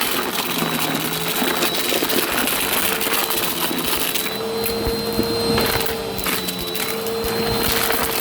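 Vacuum cleaner running with a steady motor whine, sucking up crunchy debris that crackles and clicks continually as it is drawn in.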